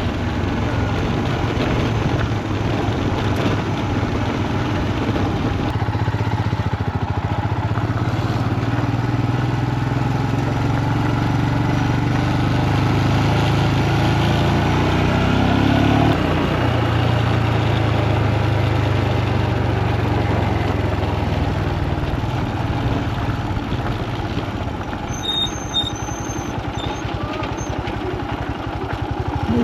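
Royal Enfield Himalayan single-cylinder motorcycle engine running at a steady road speed, with road and wind noise. About halfway through the engine note rises and then drops back.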